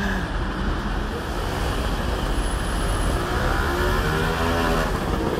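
Engine of a six-wheeled 1958 Cadillac Eldorado Brougham convertible running at low speed amid street traffic noise, its note rising and falling about three to five seconds in.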